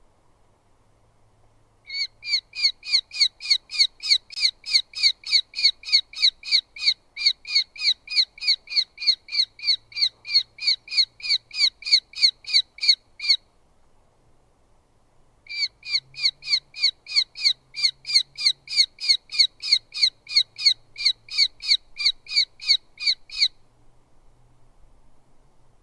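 Eurasian hobby calling at the nest: two long runs of sharp, repeated falling 'kew' notes, about three or four a second. The first run lasts about eleven seconds and the second about eight, with a short pause between them.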